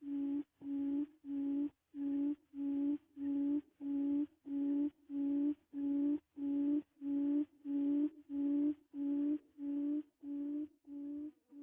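Quail call: a steady run of short, low hooting notes all on one pitch, about two a second, growing fainter near the end.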